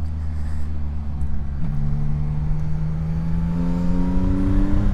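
CFMOTO 675SR-R's three-cylinder engine pulling under throttle, over a low steady rumble. Its note dips briefly about a second and a half in, then climbs steadily as the bike accelerates.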